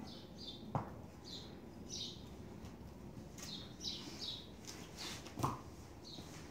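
Small birds chirping over and over, short high chirps about twice a second, with two sharp knocks: one just under a second in and a louder one near the end.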